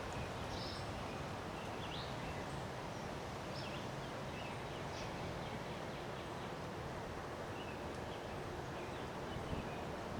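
Steady wind blowing, with birds giving short, high chirps now and then.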